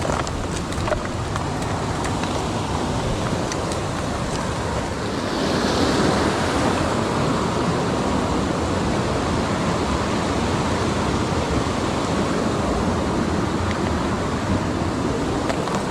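Mountain stream water rushing over rocks, a steady hiss of running water that swells a little about five seconds in.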